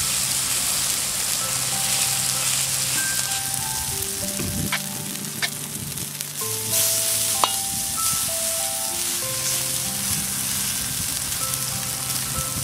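An egg and Maggi noodle omelette sizzling steadily as it fries in a pan, with a few sharp clicks of a spatula partway through.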